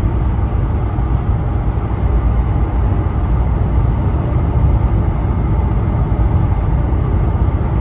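Steady engine and road noise of a Volkswagen Vanagon cruising at about 55 mph, an even low rumble with no change in pace.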